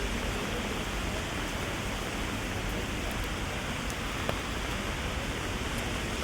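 Heavy rain falling steadily, a dense even hiss, with scattered drops ticking on an umbrella overhead and one sharper tick about four seconds in.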